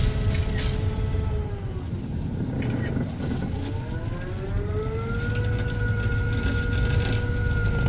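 Cruise boat's engine running with a low rumble and a whine on top. The whine drops in pitch about two seconds in, bottoms out about three seconds in, and climbs back to a steady pitch by about five seconds in.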